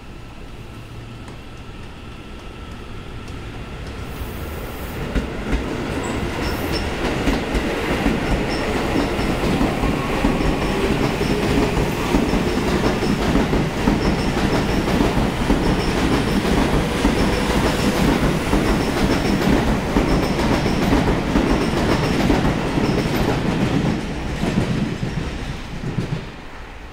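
Seibu 30000 series electric commuter train accelerating out of the station past the listener. Its wheels clatter over the rail joints, growing louder over the first several seconds, holding loud while the cars go by, then falling away quickly near the end.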